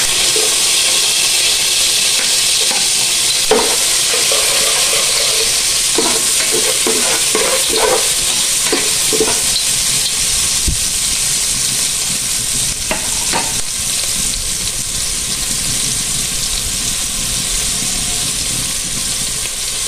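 Garlic and freshly added chopped onion sizzling steadily in hot oil in a pan as they sauté. A spoon stirs and scrapes the pan in short strokes, several between about four and ten seconds in and again around thirteen seconds.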